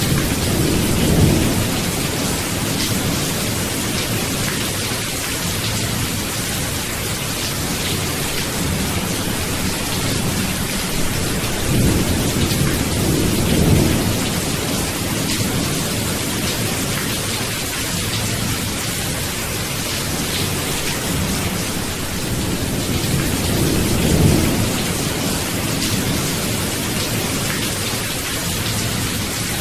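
Steady rain with low rumbles of thunder rolling in three times: near the start, around the middle, and again later on.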